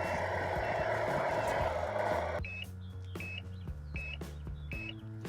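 Radio-controlled Tamiya King Hauler truck: a steady motor whir, then from about halfway a reversing beeper with short high beeps about every 0.7 seconds as the truck backs up. Background music plays underneath.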